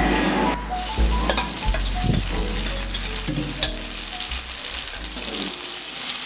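Fettuccine frying in hot garlic oil in a nonstick frying pan, a steady sizzle, with a few sharp clicks as the pasta is tossed with metal tongs.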